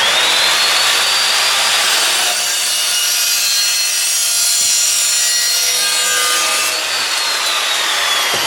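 Power saw spinning up with a rising whine and cutting through a U-bend of turbo cold-side tubing. About seven seconds in, the motor winds down with a falling whine.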